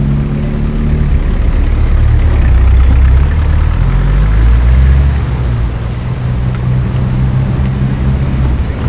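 Car engine running at steady low revs, slightly quieter from about five seconds in.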